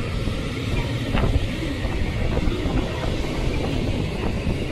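A JR Hokkaido electric multiple-unit train running past along the platform track: steady wheel-on-rail noise with a few sharp clicks.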